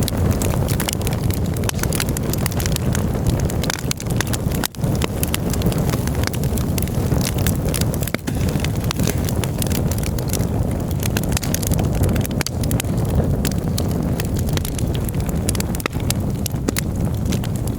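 Campfire burning with constant crackling and snapping over a steady low rumble.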